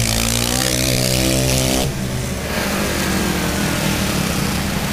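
Stunt motorcycle engine held at steady high revs, dropping back about two seconds in and running on at a lower steady speed.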